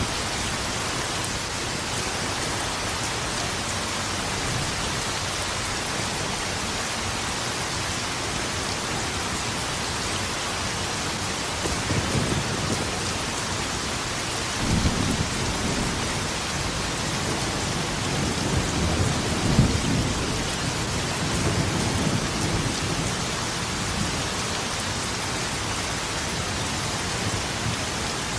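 Steady heavy rain, with thunder rumbling in the middle: low rolls about 12 seconds in, swelling strongest around 15 and 20 seconds, then fading back to rain alone.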